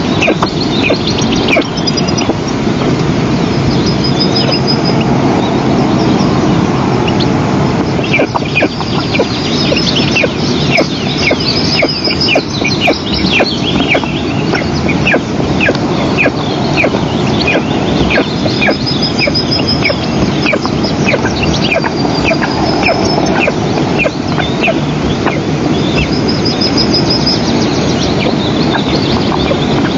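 Eastern imperial eagle chicks giving food-begging calls: a long run of short, repeated downward-sliding cheeps, about two a second, over a steady low rushing noise.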